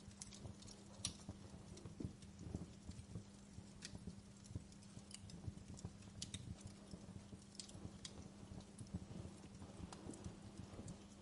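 Wood fire in a fireplace crackling, with irregular sharp pops and soft low thuds.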